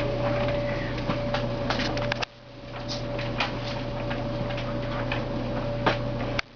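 Kittens playing with a toy mouse: scattered light clicks and taps over a steady hum with one constant tone. The sound drops out briefly twice, about two seconds in and near the end.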